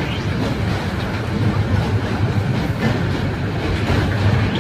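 A train running over a steel railway bridge: a steady low rumble with a faint, even clatter of wheels on rail joints.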